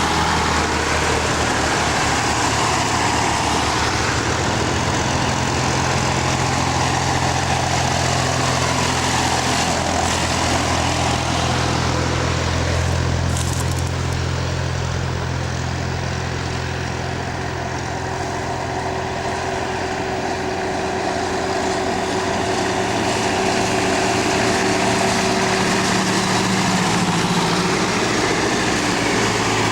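Tractor engine running steadily while under way, easing slightly about halfway through before picking up again.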